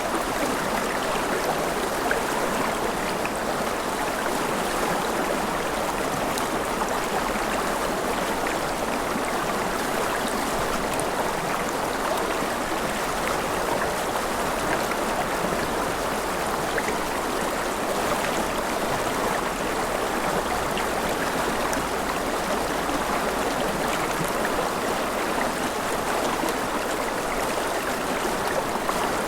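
Forest river flowing steadily over rocks, a continuous even rushing and gurgling of water.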